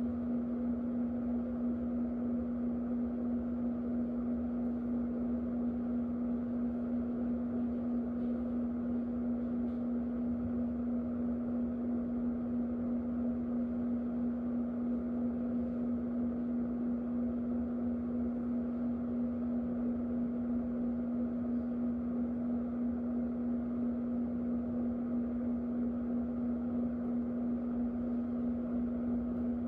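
Electric fan running steadily: an even rush of moving air with a constant low motor hum.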